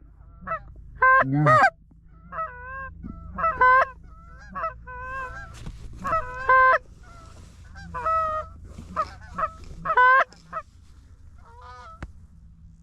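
Geese honking and clucking in a rapid, irregular series of short calls, several of them loud and close, over a low steady rumble.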